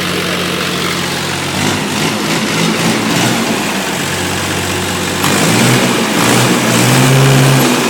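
1986 International tractor's diesel engine running after sitting for a while. It idles steadily, speeds up about a second and a half in, and runs faster and louder over the last few seconds.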